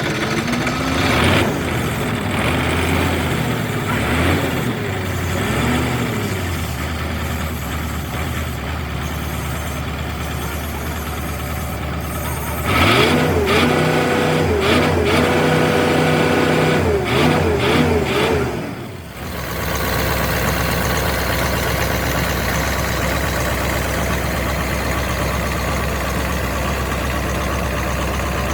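Rebuilt Mercedes-Benz truck diesel engine running: revved up and down in quick blips over the first few seconds and again about halfway through, idling steadily in between. A little past two-thirds of the way in, the sound changes suddenly to a steady, even drone.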